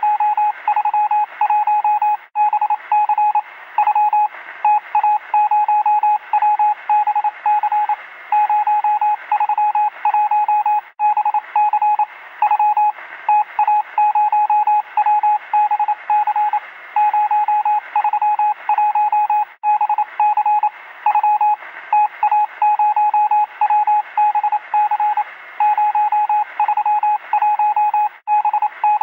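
A single-pitched electronic beep keyed on and off in quick, irregular pulses over a steady hiss, with a thin, radio-like sound. There are a few very brief dropouts.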